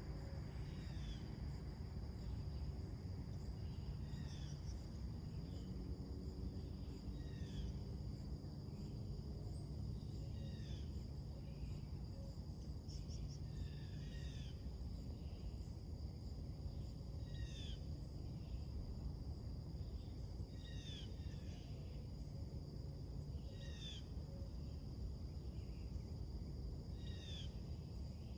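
A songbird repeating a short slurred call about once a second, over a steady high-pitched insect drone and a low, steady background rumble.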